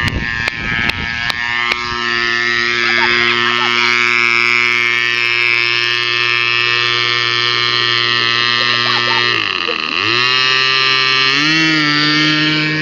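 Giant RC model airplane's fuel-burning engine running at a steady speed. About nine and a half seconds in its pitch drops briefly, then it climbs to a higher steady speed near the end as the throttle is opened.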